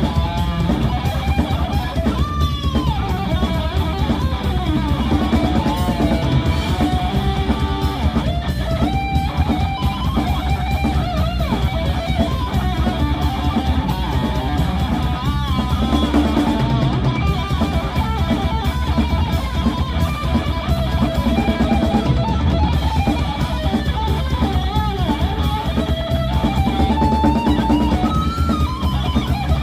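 Rock band playing live: electric guitars over a drum kit and bass, with a melody line that bends and wavers in pitch.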